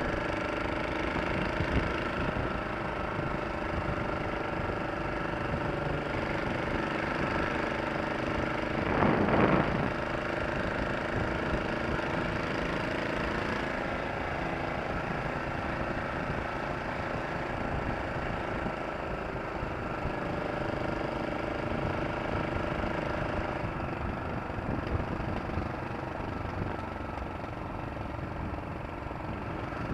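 Vehicle engine running steadily, with a brief louder rushing burst about nine seconds in.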